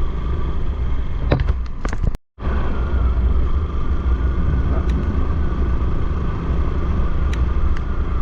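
Motorcycle riding at a steady speed: the engine runs under a steady low rumble of wind and road noise. A few clicks come just before the sound cuts out completely for a moment about two seconds in.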